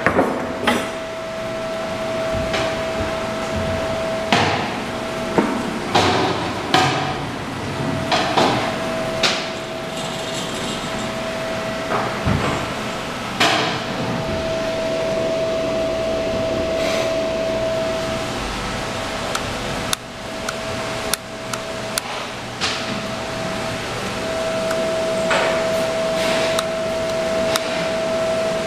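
Workshop noise: irregular sharp knocks and clanks like hammering, over a steady high-pitched hum.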